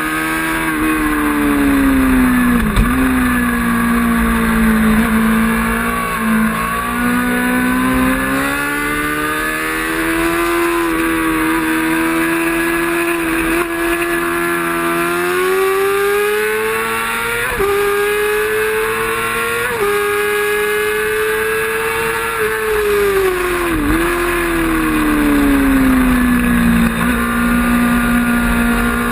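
Racing motorcycle engine running hard. Its pitch climbs steadily, dips quickly twice at gear changes, then falls sharply as the bike slows and holds a lower steady note near the end.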